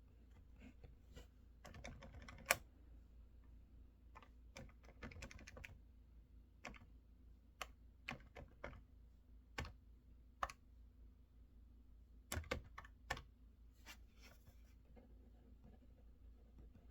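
Typing on a mechanical keyboard in short, scattered bursts of keystrokes with pauses between, one sharp click the loudest about two and a half seconds in; the keys fall quiet for the last couple of seconds.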